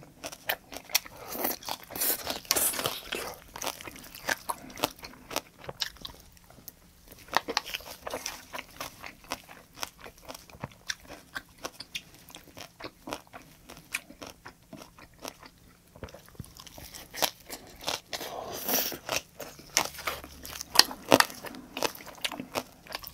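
Close-up chewing and crunching of green onion kimchi (pa-kimchi), with many quick, irregular bites.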